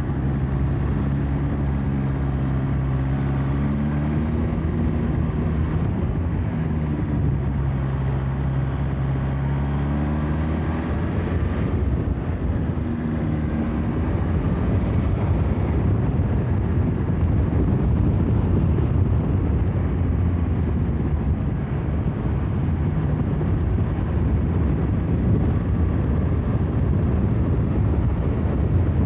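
BMW S1000XR inline-four motorcycle engine running under way, its pitch rising and falling with the throttle through roughly the first dozen seconds. After that it holds a steadier note beneath constant wind and road noise.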